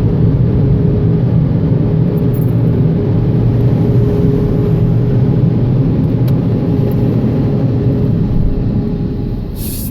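Car wash dryer blowers heard from inside the car: a loud, steady rumble with a constant hum running through it, easing off near the end.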